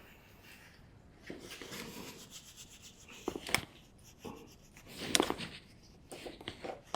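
Hand work on an ATV's CV axle joint: rubbing and scraping of parts and tools, with a few sharp clicks and a knock about halfway through.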